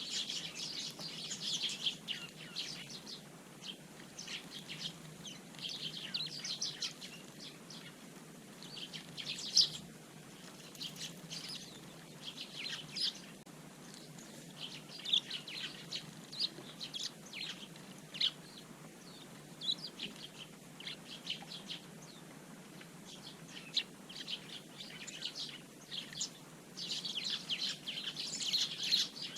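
A flock of Eurasian tree sparrows chirping: dense bursts of chatter near the start and again near the end, with scattered chirps in between.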